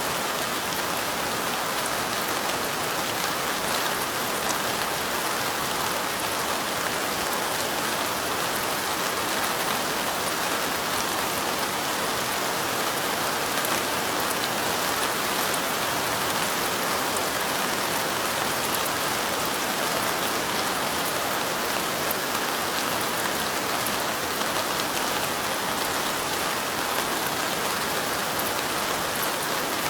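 Steady light rain falling: a continuous, even hiss with fine drop ticks, unchanging throughout.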